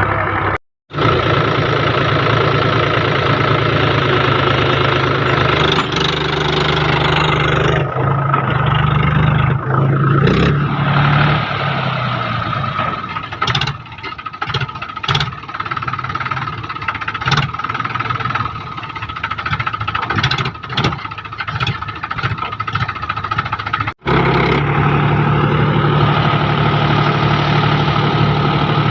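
Heavy diesel machine engine running steadily. Partway through it drops lower, and a series of sharp knocks and clatters can be heard over it.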